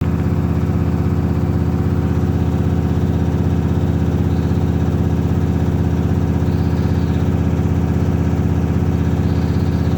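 Samsung WW65K42E00W front-loading washing machine on its spin cycle, the drum knocking in a rapid, steady rhythm. The laundry is unevenly distributed in the drum; Samsung's technician calls the knocking a feature of this model that repair won't fix.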